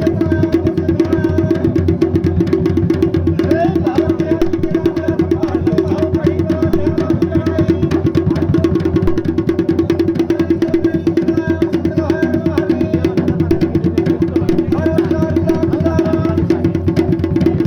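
Traditional Garhwali dhol-damau drumming for the Pandav Nritya dance: a fast, even beat, with a wavering melodic line above it.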